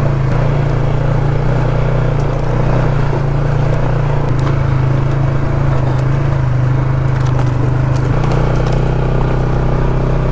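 ATV engine running steadily as the quad rides along a trail, with scattered light clicks and scrapes around the middle and later part.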